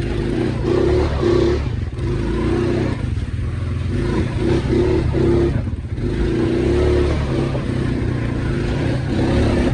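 ATV engine running under load on a muddy trail, the throttle opened and eased off in several surges.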